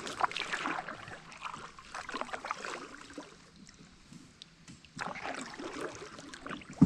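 Paddling sounds from the river: water splashing and sloshing in irregular strokes, easing off midway, then picking up again, with a single sharp knock at the very end.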